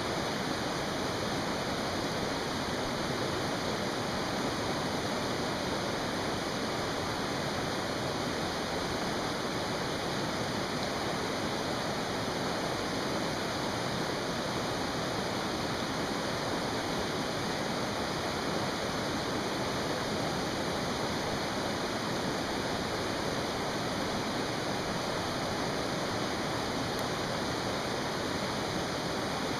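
A mountain stream rushing steadily, a constant even hiss of running water.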